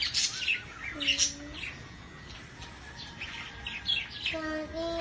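Small birds chirping, many short high chirps in quick succession, with a short held pitched call about a second in and again near the end.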